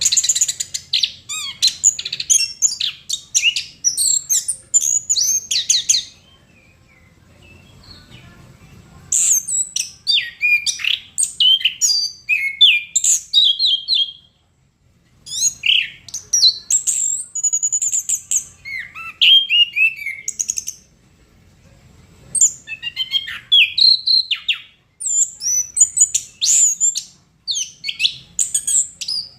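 Chestnut-capped thrush singing in long bouts of rapid, varied high whistles and trills, with short pauses between the bouts.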